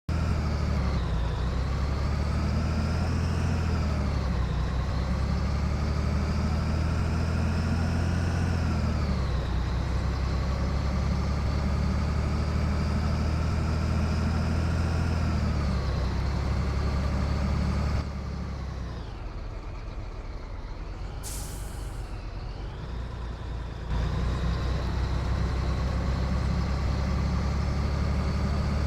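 Scania 113 truck's straight-six diesel pulling hard, its revs climbing and dropping back at each gearshift, three times over. It then falls to lower revs for several seconds with a short burst of air hiss, before pulling loudly again.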